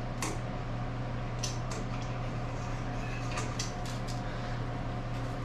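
Several light, sharp clicks and taps, scattered unevenly, as an oil can is worked to squirt oil onto the milling machine head's drive spline, over a steady low hum.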